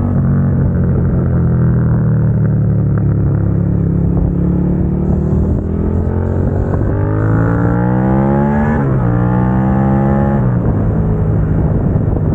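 2022 Suzuki SV650's 645 cc V-twin through an aftermarket Dominator GP exhaust, heard from onboard. It cruises steadily at first, then revs up under acceleration, with a quick drop in pitch at an upshift and another climb. Near the end it falls back to a steady lower note.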